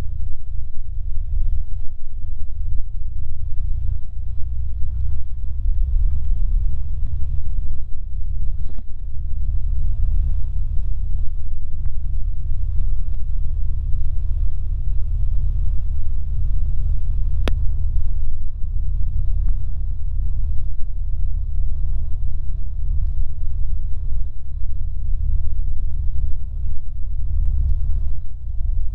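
Cabin noise of a Cessna 150's Continental O-200 engine and propeller: a loud, steady low rumble, with one brief click partway through.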